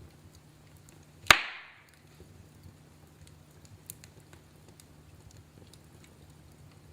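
Wood fire in a fireplace crackling, with scattered small ticks over a low steady hiss. One loud, sharp snap about a second in, then a smaller pop near four seconds.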